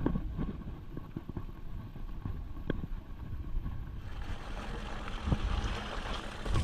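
Mountain bike ridden over rough rock, its frame and parts rattling with scattered knocks and clicks over a steady low rumble of wind on the microphone; a brighter hiss joins about four seconds in.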